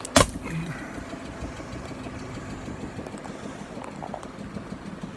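One sharp strike on windshield safety glass just after the start, then a steady engine idling hum.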